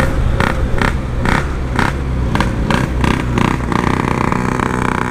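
Yamaha RX-King's 135cc single-cylinder two-stroke engine and exhaust running under way on a ride. It pulses about twice a second for the first few seconds, then settles into a steady tone. The bike is fitted with a PWL carburettor and a Packing Power standard-look exhaust, which make its exhaust very loud.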